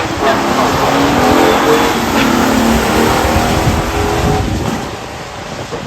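Stock muscle cars making a full-throttle drag-strip pass, engines running hard at high revs, then fading as the cars pull away down the track about four and a half seconds in.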